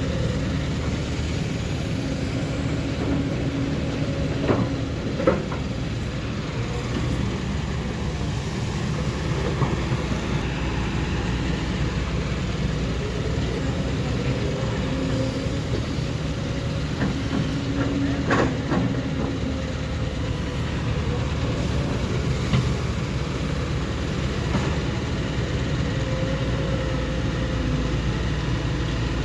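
Heavy diesel engines running steadily as a six-wheel dump truck is loaded with dug earth, with a handful of sharp knocks.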